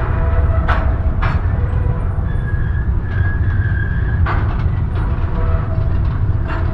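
Intermodal freight train rolling into a rail yard: a steady low rumble with thin, high wheel squeals coming and going and four sharp clanks.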